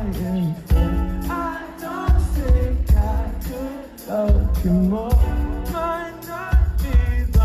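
A male voice singing a slow pop song over a backing band with a heavy bass and kick-drum pulse that drops out and comes back several times.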